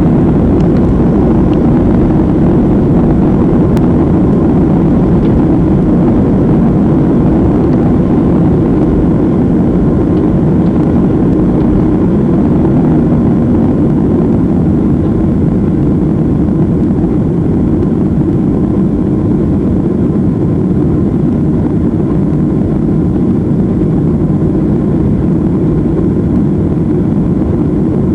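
Boeing 737's twin jet engines at takeoff power: a loud, steady, low rushing noise that eases very slightly toward the end.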